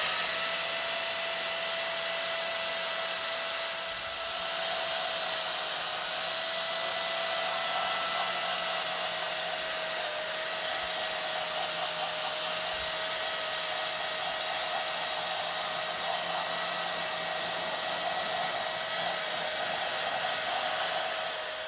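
A small high-speed electric power tool running steadily, with a high whine over a harsh abrasive hiss, being used to clean up a motorcycle engine's cylinder head.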